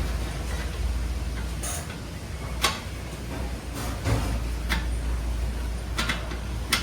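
Hand tools clicking and knocking on metal parts of an air compressor during repair, about five sharp separate clicks over a low steady rumble.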